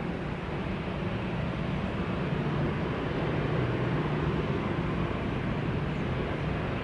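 Airbus A380-800's jet engines on its landing approach: a steady rush with a low hum underneath, growing slightly louder about two seconds in.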